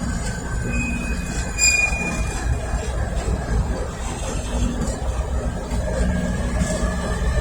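Freight train moving slowly over yard track with a steady low rumble, its wheels squealing in high thin tones for a second or two about a second in.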